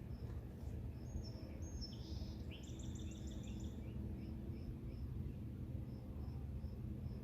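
Evening outdoor ambience: an insect, likely a cricket, chirps evenly about two to three times a second over a low steady rumble. About a second in, a songbird sings a short song of high notes ending in a rapid trill.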